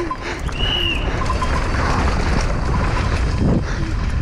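Wind rushing over a GoPro's microphone and the rattle and rumble of a downhill mountain bike descending a dry, rough trail at speed, with a brief high squeal about half a second in.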